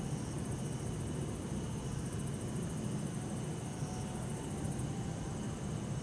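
Steady low rumble of distant city traffic, with bell crickets singing over it: short high rings recurring about every two seconds and a fast, high trill through the middle.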